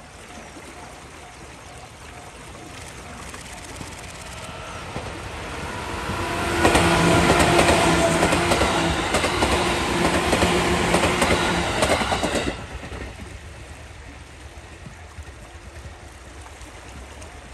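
JR 211 series 3000-subseries six-car electric train passing close by. It grows louder on approach and stays loud for about six seconds, with a steady motor hum and the clatter of wheels over the rail joints. The sound drops away suddenly as the last car goes by.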